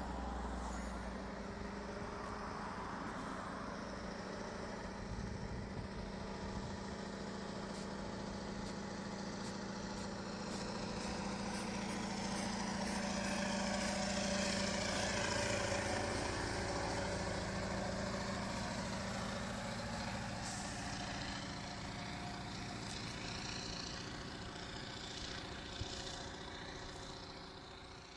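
Scania 141's V8 diesel pulling at full throttle up a hill under a heavy load of about 50–60 tons, a steady loud engine note. It grows louder to a peak about halfway through, then fades near the end.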